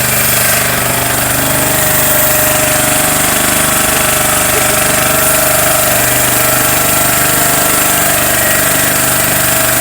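Boat engine running steadily at a constant pace, with a fast even rattle.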